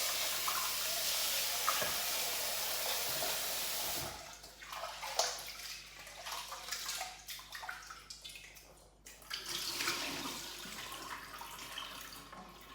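Water running into a kitchen sink for about four seconds, then stopping suddenly. Then come intermittent splashing and small knocks as the rinse water is drained off the washed rice.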